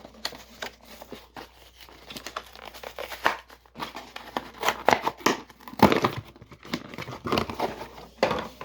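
Packaging of a Matchbox Skybusters toy plane being torn and crinkled open by hand: a run of irregular rips and crinkles, the loudest about six seconds in and again near the end.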